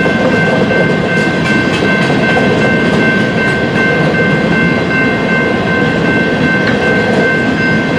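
Freight train of coal hopper cars rolling past, a steady dense rumble of wheels on rail with a steady high-pitched tone running over it.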